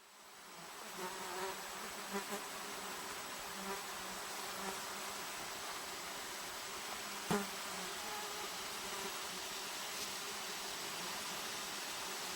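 Flying insects buzzing on and off over a steady hiss of background, with one sharp click about seven seconds in.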